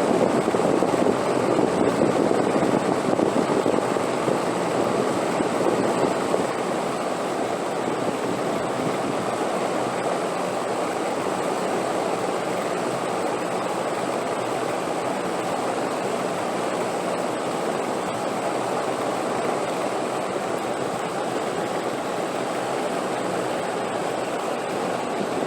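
Steady rushing wind, slightly stronger for the first few seconds and then even.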